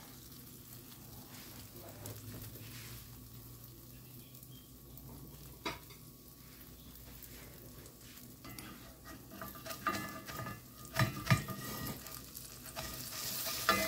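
Mini tacos frying with a faint steady sizzle in olive oil and butter in a skillet. A single knock comes about six seconds in, and a cluster of sharper knocks, the loudest sounds, comes around ten to eleven seconds in.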